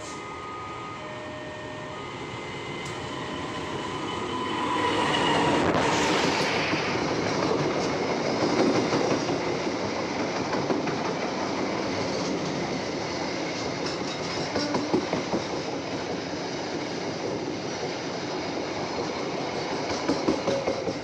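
A train passing over a level crossing, running loud from about five seconds in, its wheels clattering over the rail joints. In the first few seconds the crossing's electronic warning alarm sounds a repeating pattern of stepped tones.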